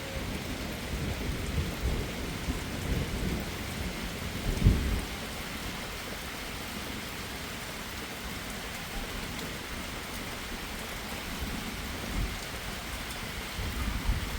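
Steady heavy rain with low rumbles of thunder; the loudest is a single deep boom about four and a half seconds in, with weaker rumbles near the end.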